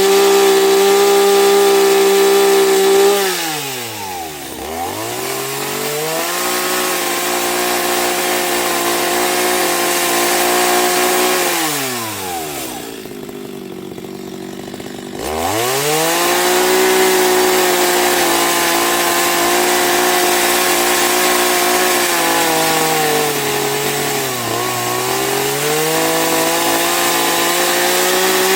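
Chainsaw engine running at high revs, its pitch falling steeply and climbing back twice, with a smaller dip near the end.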